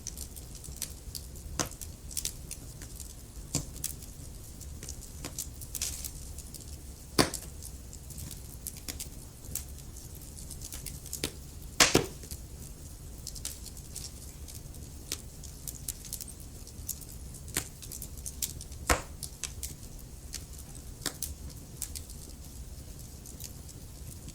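Burning wood crackling in a fireplace: irregular sharp pops and snaps over a low steady rumble of the fire, with louder pops about 7 and 12 seconds in and again near 19 seconds.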